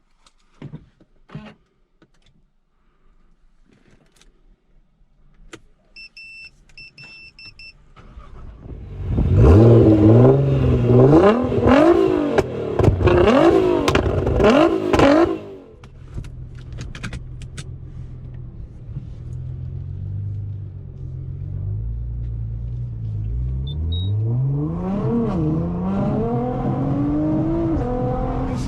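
Nissan GT-R R35's twin-turbo V6 with a loud exhaust: a short run of electronic beeps, then the engine starts and is revved hard several times in quick succession. It settles to a steady idle, then the revs climb again near the end as the car pulls away.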